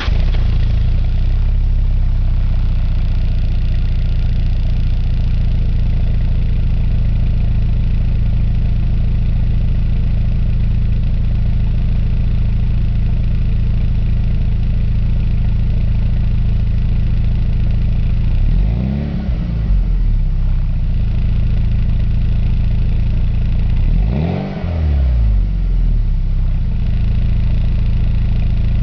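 Volkswagen Vento's 2.0-litre four-cylinder engine (ADY) idling steadily through a Remus aftermarket muffler, just after starting. Twice, about two-thirds of the way through and again a few seconds later, the throttle is blipped and the pitch rises briefly and falls back to idle.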